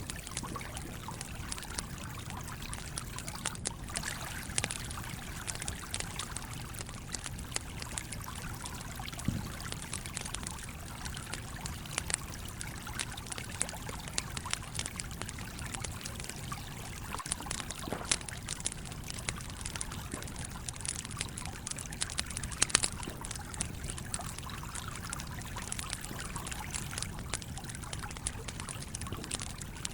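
A small stream flowing steadily, with a campfire crackling over it in scattered sharp pops and snaps; the loudest pops come a little past two-thirds of the way through.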